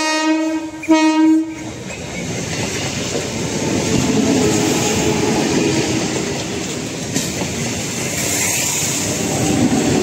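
Eastern Railway EMU local train sounding its horn: the tail of one blast ends just after the start, and a second short blast follows about a second in. After that comes the steady rush of the coaches and wheels running past close by.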